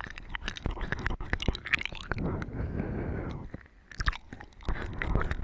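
Wet, close-miked chewing and mouth sounds, with many sharp wet clicks and a softer, longer stretch a couple of seconds in.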